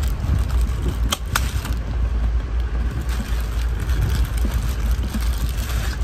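Steady low rumble of a passenger train running, heard from inside the carriage, with a plastic bag crinkling as it is handled over it and two sharp clicks a little over a second in.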